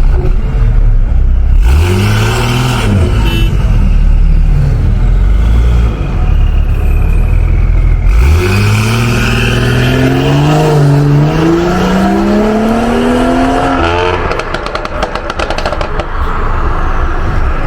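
BMW 540i's 3.0-litre turbocharged inline-six (B58) engine: a brief rev about 2 s in, then a low steady hum, then from about 8 s a hard acceleration with the pitch climbing steadily for about six seconds. Near the end the engine tone gives way to a rapid crackling.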